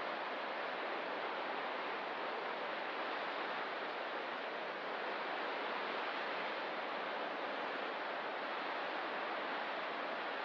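Ocean surf as a steady, even wash, with no single wave break standing out.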